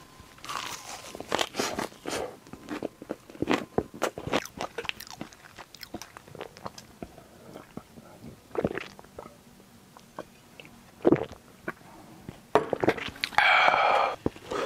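Close-miked chewing of a perilla-leaf wrap of grilled pork neck, with wet crunches and mouth clicks. A few swallowing gulps follow about eight seconds in, then a loud breathy exhale near the end.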